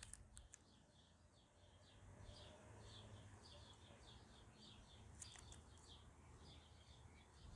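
Near silence with faint bird chirping, short chirps repeating a few times a second, and a faint click or two.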